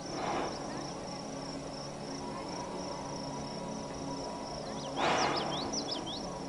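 Steady high-pitched insect trill, with a run of quick descending chirps about five seconds in. Two soft whooshes of noise come at the start and about five seconds in.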